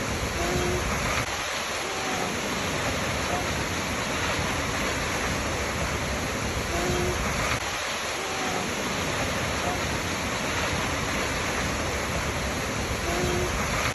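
Waterfall: steady, even rush of falling water. A few faint, short tones recur about every six and a half seconds.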